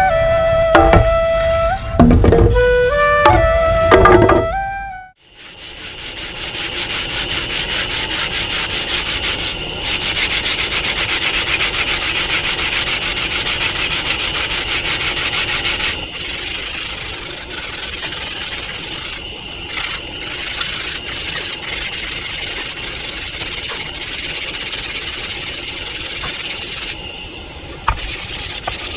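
Flute music for the first few seconds, fading out. Then wood is scraped or sanded with a fast, even rasping that carries on, dipping in loudness a couple of times.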